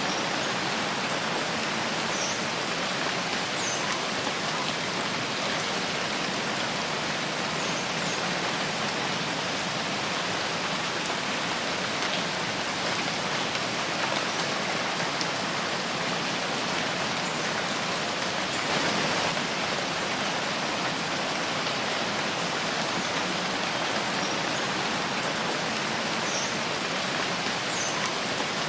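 Steady rain falling in a forest, a dense even hiss of countless drops, swelling slightly about two-thirds of the way through. A few faint, short high sounds stand out now and then.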